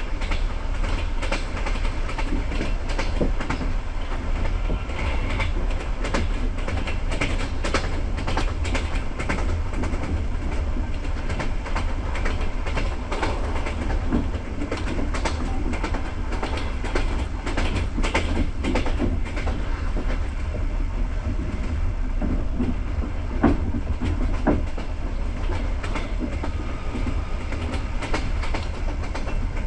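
Passenger coach wheels running on the rails, heard from inside the carriage: a steady low rumble with irregular clicks and clatter, and one sharper knock about two-thirds of the way through.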